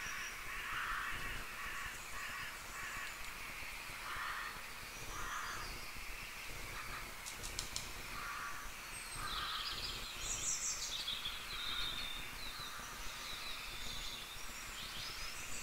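Faint birds calling: short calls repeating about once a second, with higher chirps joining about two-thirds of the way through.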